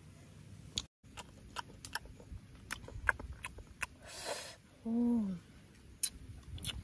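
Close-up eating sounds of a boy chewing grilled fish: many wet mouth clicks and lip smacks, a sharp breath about four seconds in, and a short falling 'mm' hum about five seconds in.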